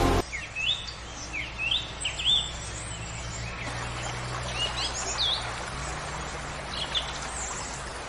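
Birds chirping: a string of short, quick chirps that sweep up in pitch, densest in the first couple of seconds and sparser after, over a faint steady low hum.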